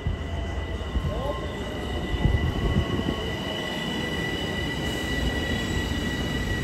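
Long Island Rail Road electric multiple-unit commuter train running past the platform: low rumble of wheels on rail with a few heavy thumps, under a high steady whine.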